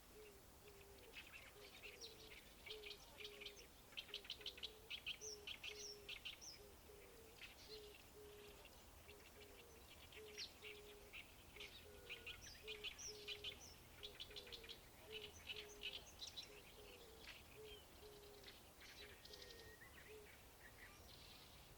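Birds calling by a river, with runs of rapid, harsh chattering notes, over a low note that repeats about twice a second; heard faintly.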